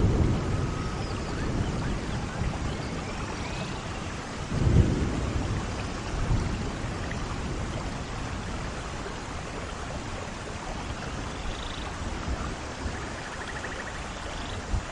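Thunderstorm: steady rain with rolls of thunder, the strongest rumble about five seconds in, then rain alone.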